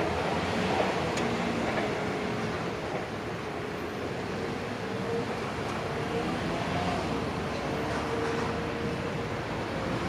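Train running past on the Tokaido Main Line, a steady rolling rumble of wheels on rail with faint held tones in it.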